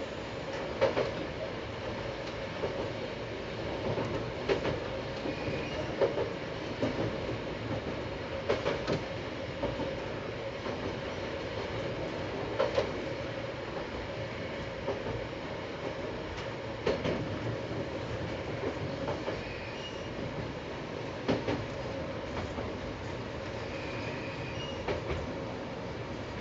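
Tsugaru Railway diesel railcar running along the line, heard from the cab: a steady running hum, with the wheels knocking over rail joints every couple of seconds.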